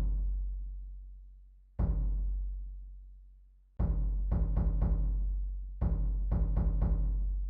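Calm, deep drum music: low booming drum strokes that ring out and fade slowly, coming about every two seconds. The first is a single hit; the later ones are quick runs of four or five strokes.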